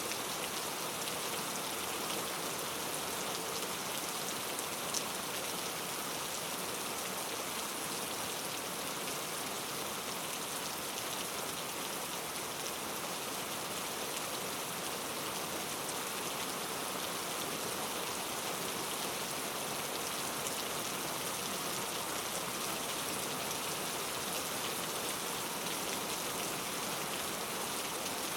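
Steady rain falling on forest foliage, an even patter with individual drops now and then, one a little sharper about five seconds in.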